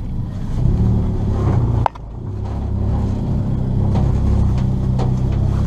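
Ford Fiesta ST rally car engine pulling hard under acceleration. There is a sharp click and a brief drop in engine sound about two seconds in, like a gear change, then it pulls steadily again.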